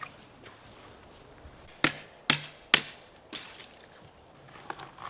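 Three hammer blows on metal, each with a short high ring, about half a second apart, followed by a couple of fainter knocks near the end.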